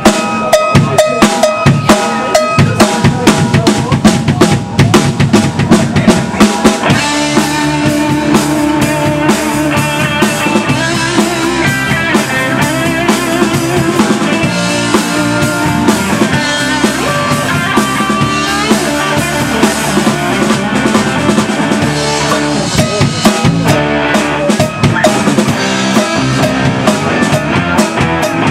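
Live band playing, led by a drum kit with snare rimshots and bass drum hits throughout; pitched instruments fill in more fully from about seven seconds in.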